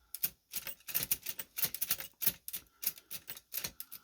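Chicago type-sleeve typewriter being typed on: a quick, uneven series of mechanical keystroke clacks, several a second. The type sleeve is sluggish to return, which the restorer puts down to a gummy slide.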